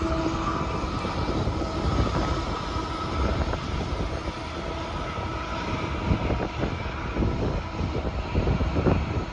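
Distant freight train with diesel locomotives at its rear, running along the track: a steady rumble of engines and wheels on rail, with a few faint steady tones over it.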